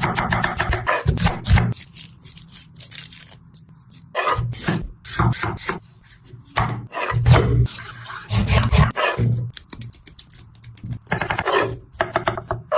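Knife cutting and scraping through fruit: bursts of rasping, scraping strokes with short pauses between them.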